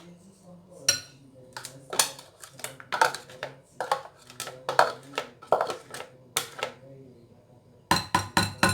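A utensil clinking and knocking against a mixing bowl in irregular strokes, about one a second, as beaten egg whites are spooned into cake batter. A quick flurry of knocks comes near the end.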